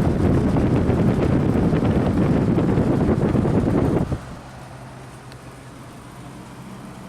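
An Amana hotel-room air-conditioning unit's fan running on high, its outflow blowing onto the microphone as a loud rushing noise. About four seconds in this drops suddenly to the unit's steady, much quieter running hum.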